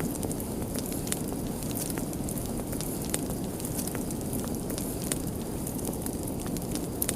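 Open fire crackling: a steady low rush of flames with frequent sharp, irregular pops and snaps.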